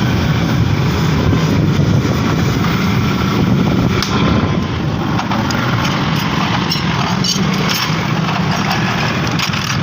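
Steady low rumble of running engines or vehicle traffic nearby, with a few faint small clicks over it.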